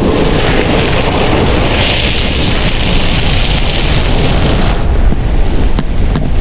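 Ram 1500 pickup driving through snow: a loud, dense low rumble with a hiss that swells about two seconds in and drops away near the end, followed by two sharp clicks.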